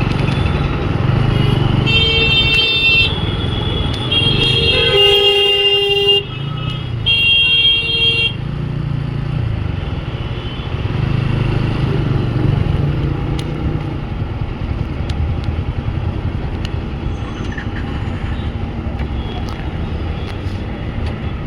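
Motorcycle riding through dense city traffic with steady engine and road rumble, and vehicle horns honking several times in the first eight seconds or so, the longest blast about five seconds in.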